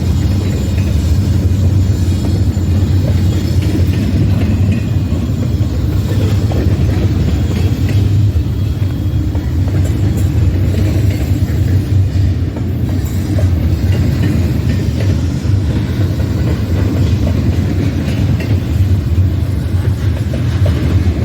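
Freight train rolling past: a steady, loud rumble of the cars on the rails, with faint wheel clicks over it.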